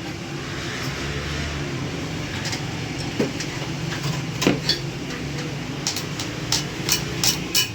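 Workshop sounds: a steady low hum with a run of sharp knocks and clicks, about eight of them, starting about three seconds in and crowding together near the end.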